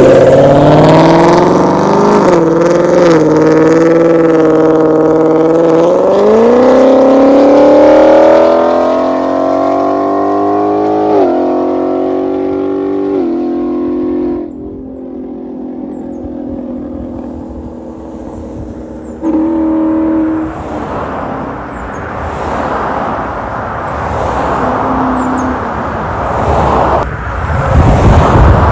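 Ford Mustang GT V8 with Stainless Power headers and a Borla exhaust accelerating hard, its note climbing in pitch through several upshifts before the throttle is lifted about halfway through. After that it runs quieter, with a short loud blip a few seconds later and the sound swelling again near the end.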